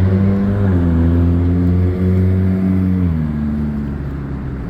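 A vehicle's low, steady engine-like drone with a clear pitch. It drops in pitch about three seconds in and then fades.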